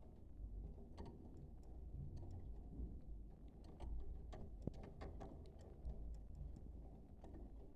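Faint, irregular small clicks and taps over a low steady rumble, with no budgie chirping or warbling.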